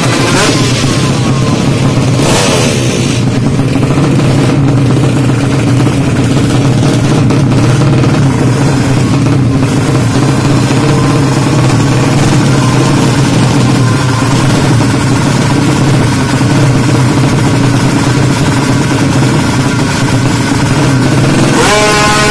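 Tuned motorcycle engines running loud and steady, with a falling pitch sweep as a bike goes by in the first few seconds. Near the end an engine revs hard with a sharply rising pitch.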